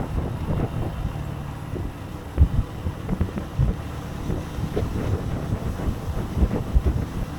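Wind buffeting the microphone on a moving motorcycle: a low, gusty rumble with irregular thumps.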